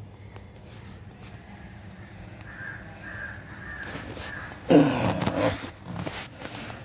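A bird's harsh calls, the loudest about five seconds in and a shorter one a second later, over a low steady background hum.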